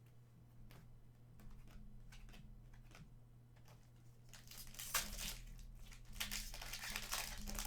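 A trading-card pack wrapper crinkling and tearing as it is opened, in two spells of rustling about four and six seconds in, with light ticks of cards being handled between them.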